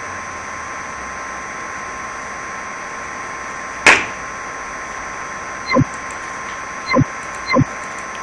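Steady hiss and electrical hum from a recording microphone, with a thin steady tone through it. A sharp click comes about four seconds in, and three shorter clicks follow near the end.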